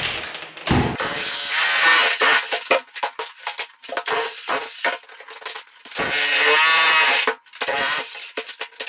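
A small electric power-tool motor, most likely a drill working the concrete, runs in bursts: once from about a second in, and again around six seconds in with a wavering pitch.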